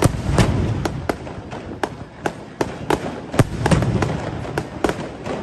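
Fireworks display: a rapid series of sharp cracks and pops, with deeper rumbling booms of bursting shells about half a second in and again around three and a half seconds in.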